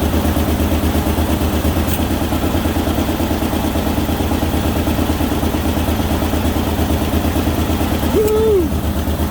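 Ford Ranger engine idling steadily with an even pulse, freshly reassembled and running with what the owner takes for an exhaust leak. A brief rising-then-falling high tone cuts in about eight seconds in.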